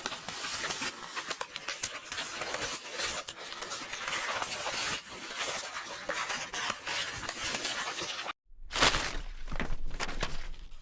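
Paper rustling and crackling like book pages being handled and torn, a dense run of small crisp rustles. About eight seconds in it drops out for a moment, then comes back with a louder tearing burst.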